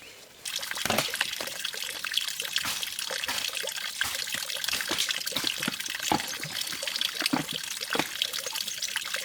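Running water splashing steadily, with many small splashes. It starts suddenly about half a second in and stops abruptly at the end.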